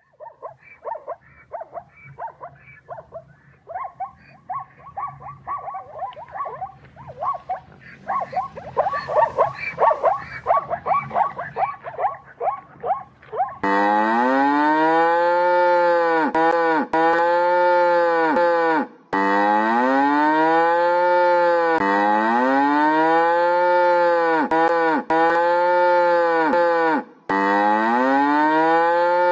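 A jumble of short, overlapping animal calls, then, about halfway through, a loud run of cow moos: the same call again and again, each rising and then falling in pitch, about every second and a half.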